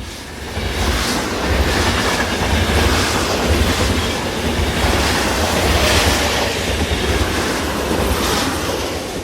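A train rolling along the rails: a steady rumble with wheel clatter, fading in at the start and easing off near the end.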